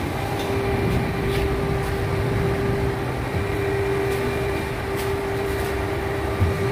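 A crane's engine running steadily while the hoist is stopped, with a constant hum held at one pitch throughout.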